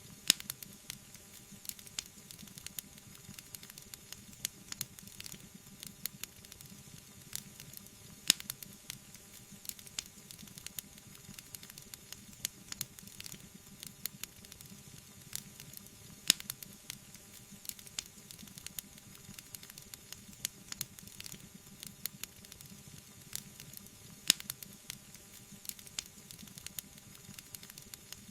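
Wood fire burning in a fireplace: a steady low hiss and bubbling with frequent small crackles and a few louder sharp pops.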